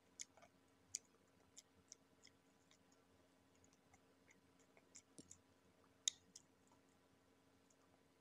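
Faint, irregular crisp clicks and crunches of a person chewing crispy KFC fried chicken, with mouth sounds; the sharpest crunch comes about six seconds in, over a faint steady hum.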